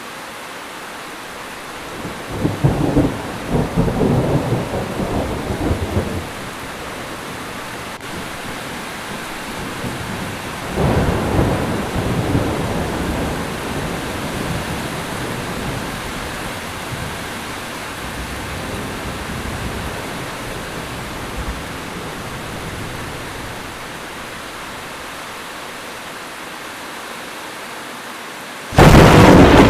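Heavy rain falling steadily through a thunderstorm, with two rolls of thunder rumbling up and fading, one a few seconds in and one about eleven seconds in. Near the end a sudden, much louder thunder crack breaks in.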